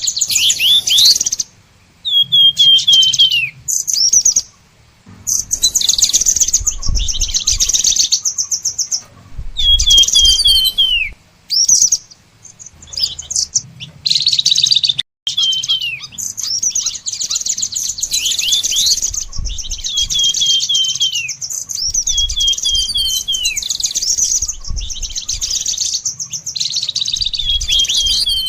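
Songbird singing in phrases of high, rapid trilling, many ending in a few quick downward-sliding whistled notes, with short pauses between phrases in the first half and near-continuous song in the second half.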